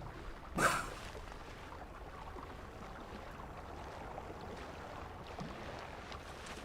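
Quiet sea water lapping and rippling with small drips, with one brief louder swish of water about half a second in.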